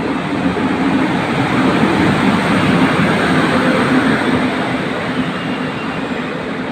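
A train running, heard as a loud, steady rumble and rush of noise with a faint hum in it. It swells a couple of seconds in, then eases slightly.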